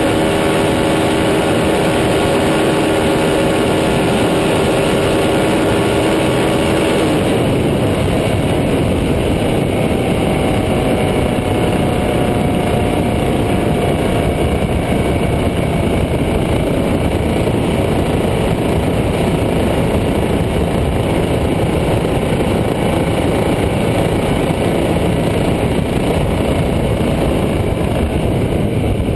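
KTM 1290 Super Duke R's V-twin engine running at a steady, loud note. About seven seconds in the note drops away into a dense rushing noise with a faint, slowly falling tone.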